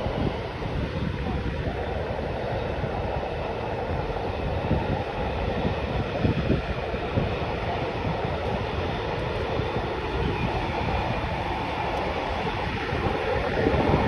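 Intermodal container freight train rolling past, the steady rumble and clatter of its flatcars on the rails.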